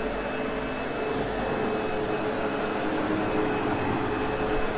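Sebo X8 upright vacuum cleaner running steadily: a constant motor whine over a rush of air.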